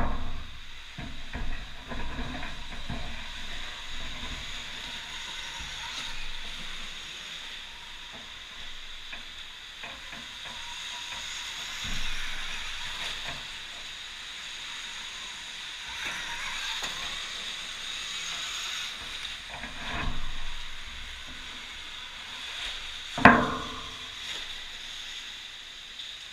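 Electric dirt bike riding on an indoor dirt track: a steady hiss of tyres and air with a few sharp knocks, the loudest near the end.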